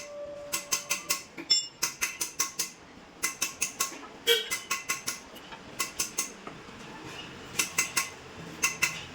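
Ratchet wrench clicking in quick runs of four to six sharp metallic strokes, about five a second, with short pauses between runs.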